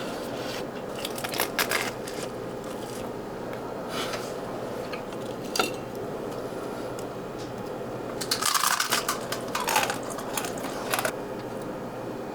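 Scattered crunching and scraping, in short bursts about a second in and near four and six seconds, then a denser cluster from about eight to eleven seconds, over a steady background hum.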